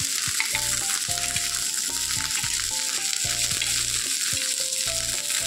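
Cheese-topped bread slice frying in butter on a flat tawa: a steady sizzle.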